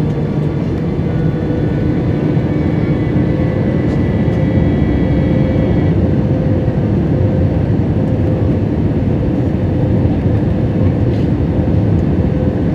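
Steady cabin noise inside an Airbus A320 in flight: a dense rumble of its IAE engines and the airflow, with a steady tone running through it and fainter higher tones that stop about halfway.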